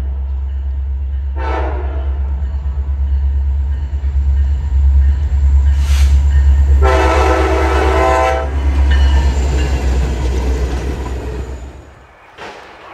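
A train passes close by with a heavy low rumble while the locomotive's air horn gives a short blast and, about five seconds later, a long one. Coming after a long blast just before, this is the end of the grade-crossing horn signal. The rumble drops away shortly before the end.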